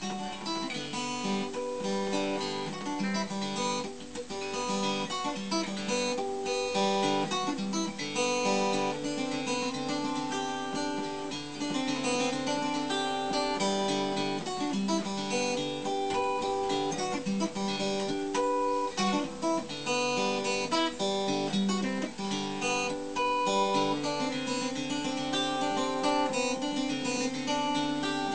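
Acoustic guitar playing a fingerpicked instrumental piece, plucked notes and chords in a steady flow.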